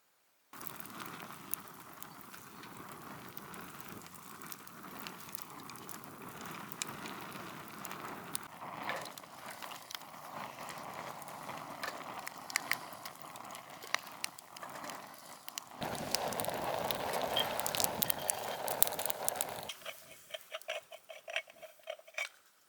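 Campfire crackling, with a steady hiss and scattered sharp pops. Near the end it turns louder and denser for about four seconds, then thins to quieter ticks.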